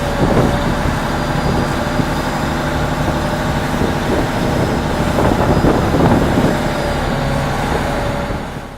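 River shuttle boat's engine running with a steady drone, dropping away abruptly near the end.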